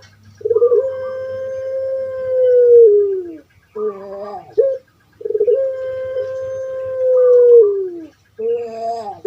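Puter pelung dove (Streptopelia risoria) cooing, twice: each time a short, rough opening note, then one long, level coo that drops in pitch at its end.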